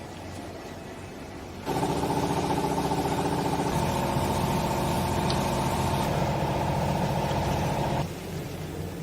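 Hydraulic clothes baler running. A steady low motor hum, then a louder, steady multi-tone whine from the hydraulic pump working under load, which starts suddenly about two seconds in and cuts off about eight seconds in.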